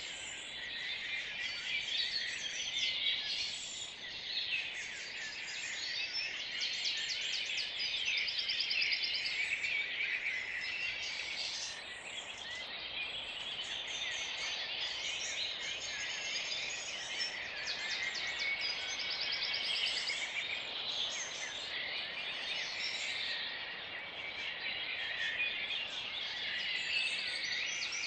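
Dawn chorus: many songbirds singing at once, overlapping phrases, fast trills and chirps.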